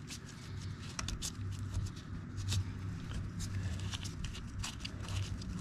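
Scattered light clicks and taps of someone handling parts and moving around, over a low steady hum.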